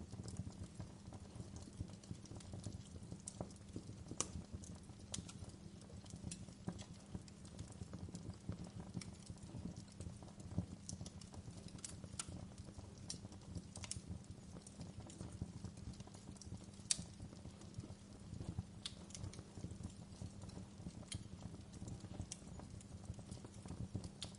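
Wood fire crackling in a fireplace: irregular sharp pops and snaps over a low, steady rumble of the burning logs, with one louder pop about two thirds of the way through.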